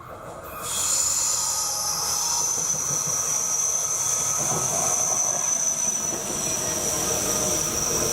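A train passing close by on the Lötschberg mountain line, its wheels squealing steadily over the rolling rumble of the cars. The sound swells in about a second in and then holds loud.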